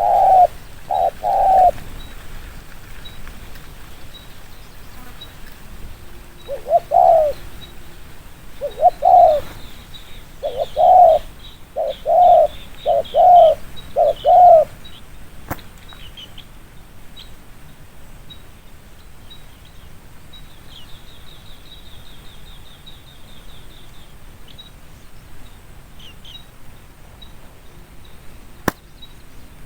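Spotted dove cooing: a quick run of coos at the start, then after a pause a series of about eight coos over eight seconds. Faint high chirping of small birds runs under and after the coos, with two sharp clicks in the quieter second half.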